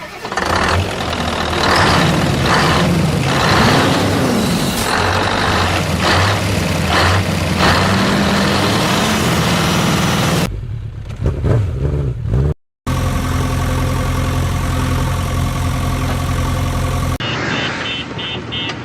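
Vehicle engine sound effects spliced together with abrupt cuts: engines running and revving with rising and falling pitch. Near the end there is a repeated beeping.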